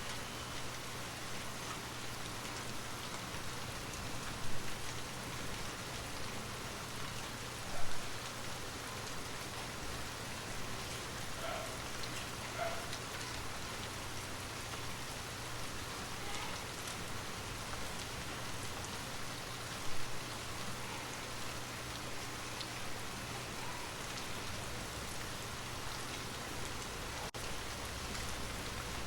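Steady rain falling, an even hiss of drops with a low steady hum beneath it. A few brief louder sounds stand out now and then.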